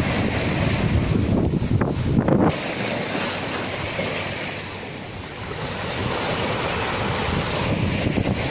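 Sea waves breaking and washing in, with wind buffeting the microphone as a low rumble for the first two and a half seconds. The wash eases around the middle, then a wave's hiss builds again from about six seconds in.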